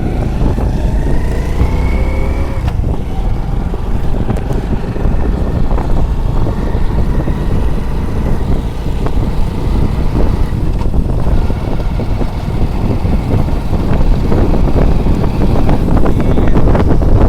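Wind buffeting the microphone on a moving motorcycle, over the engine running, with its pitch rising during the first couple of seconds. The rush of wind grows louder over the last few seconds.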